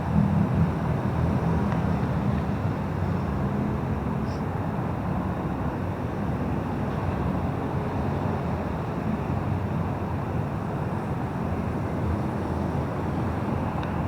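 Steady rumble of heavy traffic passing on a busy city highway.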